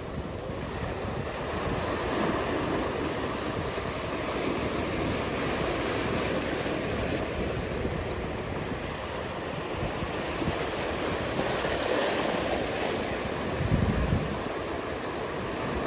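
Ocean surf: a steady wash of breaking waves that swells and eases, with wind rumbling on the microphone. A brief low rumble comes near the end.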